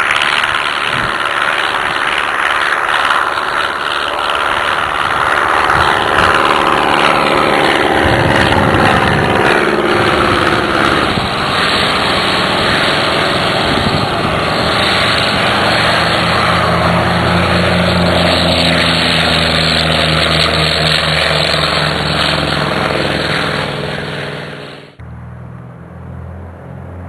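Propeller airplane engine running at full power on a takeoff run, its pitch falling as it passes by. Near the end the sound cuts abruptly to a quieter, steady engine.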